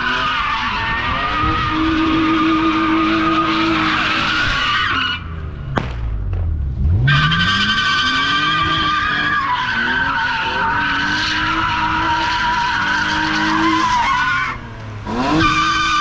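A car spinning its tyres at a car meet: the tyres squeal steadily over the engine held at high revs. About five seconds in, the squeal breaks off with a sharp click while the engine drops and then revs back up before the squeal resumes, and it breaks off briefly again near the end.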